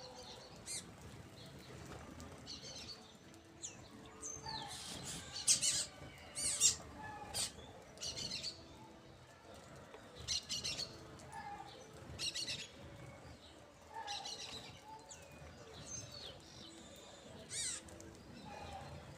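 Birds chirping and calling in short, high-pitched bursts, scattered irregularly, the loudest a few seconds in.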